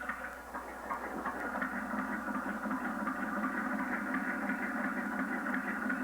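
Steady mechanical running noise from the scale Hicks model engine, its mechanism driven by a small built-in DC motor, with faint ticks over an even whir.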